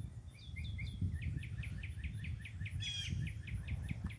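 A songbird singing: a few chirps, then a quick run of about ten short down-slurred notes, then one buzzy note, over a steady low rumble.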